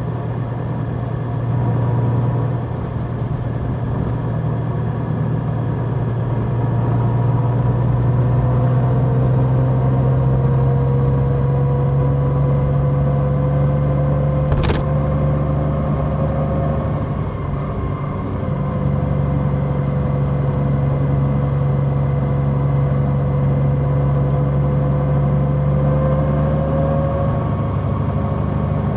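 Large motorcycle's engine running while riding, its pitch slowly rising, dropping back once and rising again. A single sharp click about halfway through.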